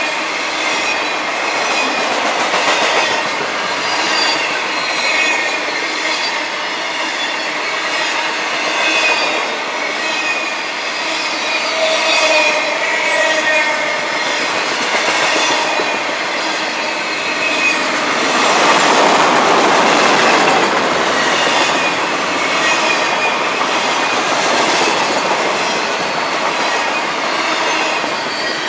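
Freight train's intermodal flatcars loaded with trailers and double-stacked containers rolling past: steady noise of steel wheels on rail, with high squealing tones from the wheels that come and go. There is a louder stretch about two-thirds of the way through.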